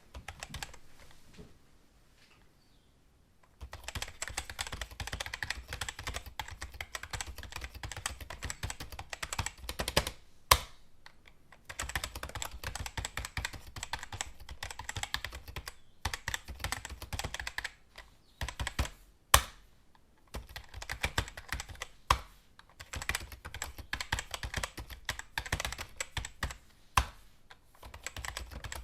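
Fast typing on a computer keyboard in runs of rapid key clicks, broken by short pauses, with a few single keystrokes noticeably louder than the rest. The typing starts about three and a half seconds in, after a short quiet stretch.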